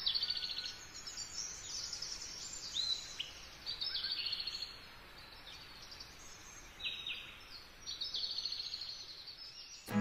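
Birds calling in short, repeated trills and chirps every second or two, over a faint steady hiss of outdoor ambience.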